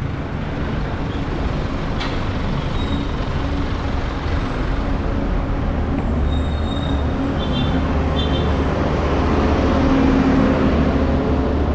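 Steady city street traffic and road noise: vehicle engines running, with a few short high-pitched beeps about six to eight seconds in.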